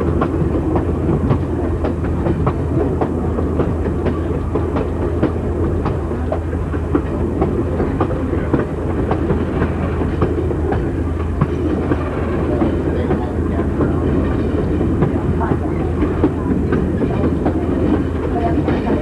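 Passenger train rolling along the track, its coach wheels clicking over rail joints over a steady rumble.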